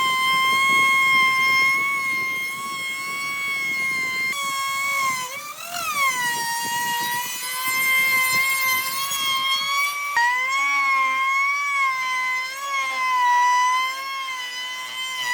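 A power tool's motor running at high speed with a steady high-pitched whine, its pitch wavering slightly as it works the wood, with a brief dip and swoop in pitch about five or six seconds in.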